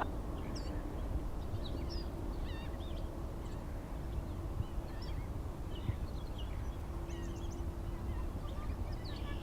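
Birds chirping: many short, quick calls scattered throughout, over a steady low rumble.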